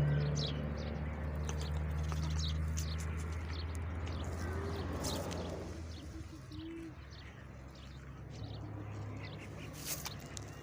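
Birds calling: many faint short chirps and two brief low calls, over a steady low hum that fades a little past the middle.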